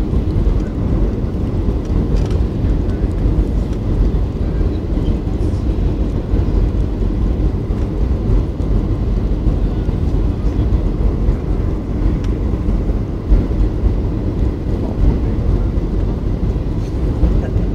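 Steady, heavy low rumble of a Boeing 737-800 as heard from inside the passenger cabin: engine and airflow noise.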